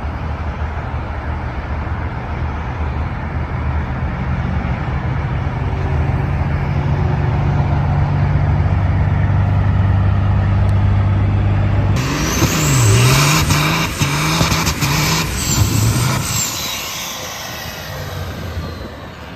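Truck engine running with a steady drone that slowly climbs in pitch. About twelve seconds in the sound switches suddenly to an engine revving up and down several times, then dies away.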